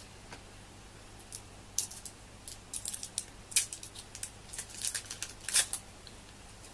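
Pieces of bubble gum being handled and unwrapped: scattered short, sharp crinkles and clicks of the wrappers, coming in two clusters.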